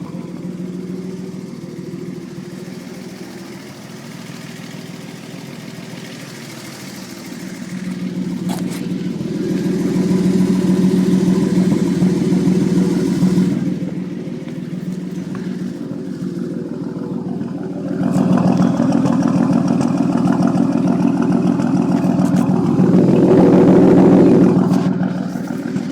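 Straight-piped exhaust of a 1982 Datsun 280ZX Turbo's turbocharged inline-six running loud and steady. It swells louder twice: once about a third of the way in and again for the last third, loudest near the end.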